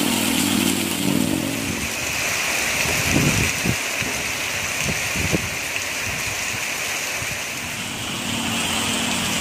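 Heavy rain pouring down as a steady hiss. A low engine-like hum sits under it near the start and again near the end, and there are a few dull thumps in the middle.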